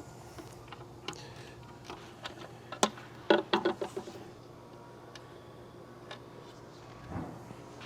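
Scattered metal clicks and taps of a socket and ratchet working the 10 mm bolts on the intake manifold brackets, with a quick run of louder clicks about three seconds in and a soft thud near the end.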